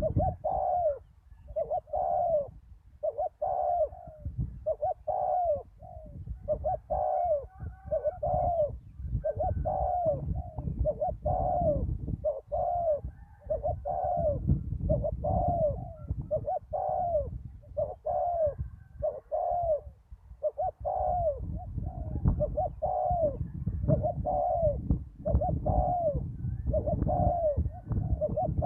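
Spotted dove cooing over and over, a short coo about every second.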